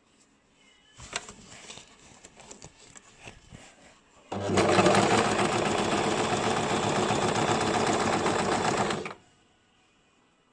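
Basic domestic sewing machine stitching in one steady run of about five seconds, starting sharply about four seconds in and stopping suddenly. Before it come a few irregular light clicks and knocks.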